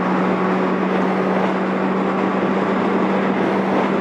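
Yamaha XJ750 Seca's air-cooled inline-four engine running at a steady cruising speed on the freeway, holding one even pitch over a rush of wind noise. Its carburettors have been treated with Sea Foam and the bike is out on a run to clean them.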